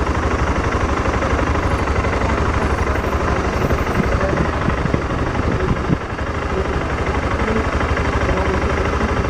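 BMW motorcycle engine running under way, a steady loud drone with fast low pulsing mixed with rushing road and wind noise; the level dips briefly about six seconds in.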